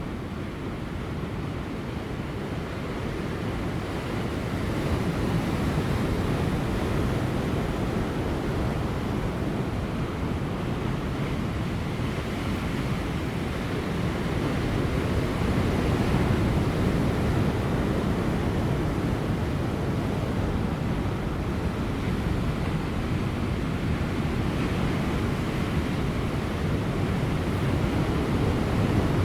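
Large ocean waves breaking on rocks offshore, a continuous low rush of surf that swells about five seconds in and again around the middle. Light wind buffets the microphone.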